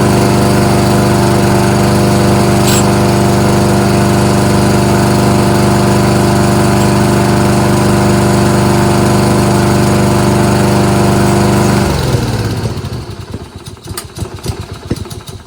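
Kohler XT-675 single-cylinder lawnmower engine running steadily at a constant speed. About twelve seconds in it winds down and stops, followed by irregular knocks and rattles.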